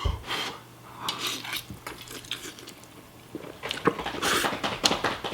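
A fork clinking and scraping against a bowl while ramen is eaten. There are several short hissy sounds a little before the end.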